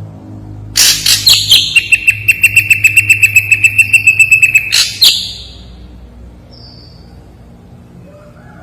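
Ashy drongo singing: a loud, rapid string of harsh notes, about six a second over a steady high note, lasting about four seconds. A single short high whistle follows.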